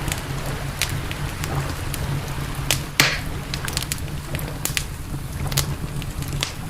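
Wood campfire crackling, with scattered sharp pops and one louder snap about three seconds in, over a steady low rumble.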